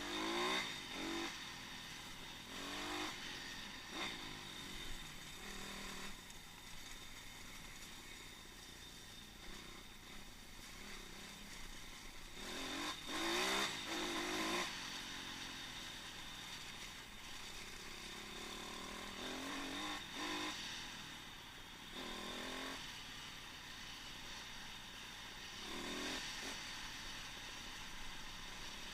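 Pit bike engine revving up and dropping back again and again while being ridden, recorded by an onboard action camera against a steady hiss of wind and running noise. The strongest burst of revs comes about halfway through.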